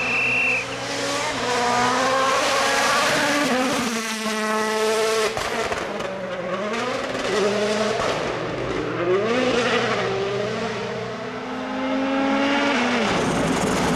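A World Rally Car's 1.6-litre turbocharged four-cylinder engine at full throttle, its revs climbing and dropping several times through gear changes as it drives past.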